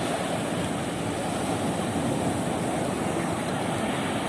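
Steady, even rushing of surf breaking on a beach.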